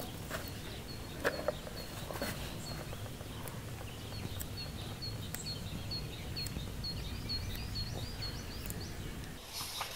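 A small bird calling over and over, a short high chirp about three times a second that turns into quicker, more complex notes near the end, over a steady low outdoor rumble. A couple of sharp clicks sound about a second in.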